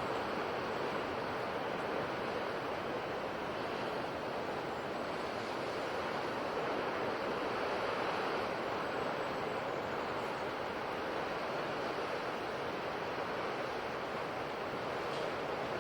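Ocean surf washing on a shore: a steady rushing of waves that swells and eases gently, with no single breaking crash standing out.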